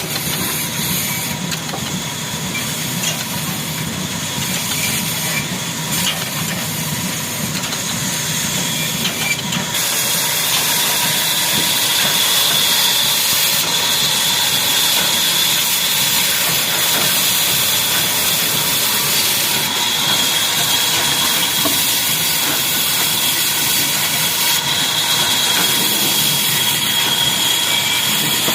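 Old black diesel engine running, with a steady hissing noise over it. About ten seconds in the sound grows a little louder and a steady high whine joins it.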